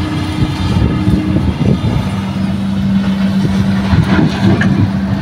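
Heavy earthmoving machinery's diesel engine running steadily at working revs, a deep steady hum that briefly wavers about a second and a half in before settling back.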